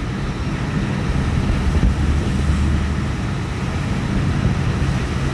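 Steady low engine rumble mixed with wind noise, as aboard a moving vessel.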